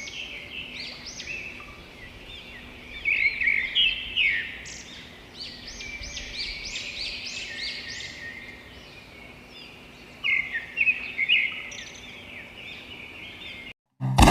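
A chorus of small birds chirping and twittering, many quick, overlapping high calls at once, with louder bursts now and then; it cuts off suddenly just before the end.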